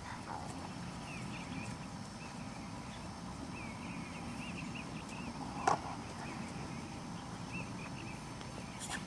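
Small birds chirping: strings of short, high chirps come and go over a steady outdoor rumble, with one sharp click a little past halfway.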